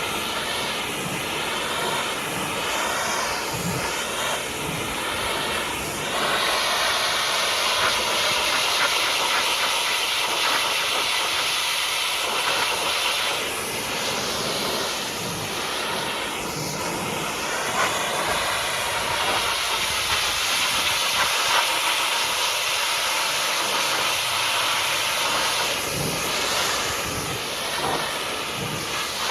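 High-pressure washer jet spraying water onto a mud-caked truck: a steady, loud hiss that grows louder and brighter about six seconds in and dips briefly a couple of times as the spray moves across the truck.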